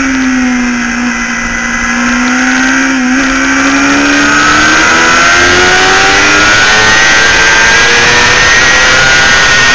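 Onboard sound of a motorcycle engine on track under wind noise: the engine's pitch holds low through a leaned-over corner, then climbs steadily as the bike accelerates out onto the straight.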